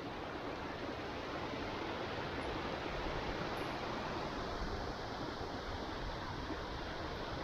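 Steady rushing of the Moss Force waterfall and its beck, with an uneven low rumble of wind on the microphone.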